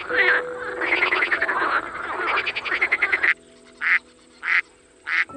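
Animal calls: a dense run of rapid, rasping pulsed calls for about three seconds that stops abruptly. Then three short separate calls follow at an even spacing of about half a second.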